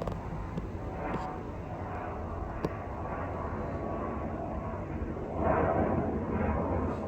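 Steady low rumble of aircraft noise with a few faint clicks, swelling louder about five seconds in.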